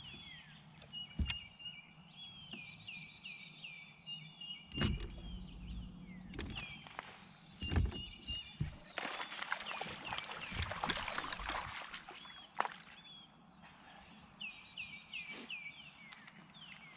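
Birds singing, with repeated series of short falling chirps and a thin high whistle. A few sharp knocks or thumps come in the first half, and there are a few seconds of hissing noise in the middle.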